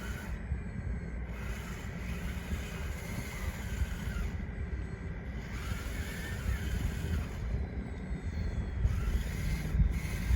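Model RC bulldozer's small electric drive motors whining unsteadily while it works, over a steady low rumble.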